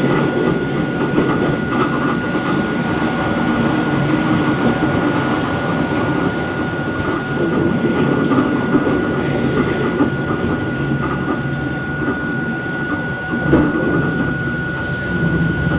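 Running sound of Hakone Tozan Railway Moha 1 No. 106, an electric car with nose-suspended SE121-A traction motors on Nippon Sharyo NA7 bogies, heard on board. It is a steady rumble of motors and wheels with a constant high whine and rail-joint clatter, and a single louder knock near the end.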